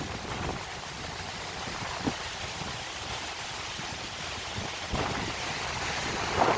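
Strong, gusty storm wind blowing and buffeting the microphone with a low rumble, with a couple of soft knocks about two and five seconds in.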